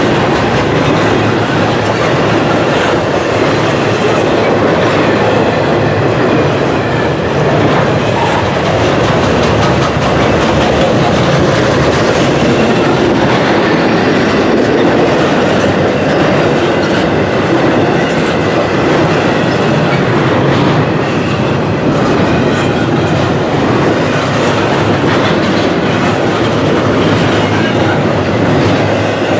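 Norfolk Southern double-stack intermodal freight train rolling past at speed, the steel wheels of its container well cars making a steady, loud rumble with clickety-clack over the rail joints.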